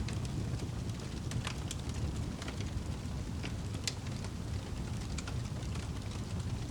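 Wood fire crackling in a fireplace: scattered sharp pops and snaps over a steady low rumble of flames.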